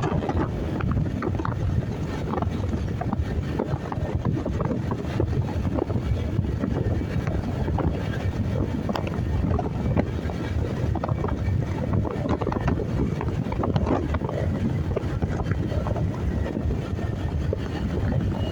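Steady wind buffeting on the microphone while riding a motorcycle, mixed with the rumble of the engine and road.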